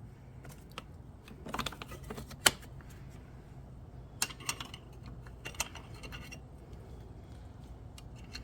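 Scattered small metal clicks and taps of a dirt bike footpeg's pivot bolt and spring being worked into line with the mounting bracket, with one sharper knock about two and a half seconds in.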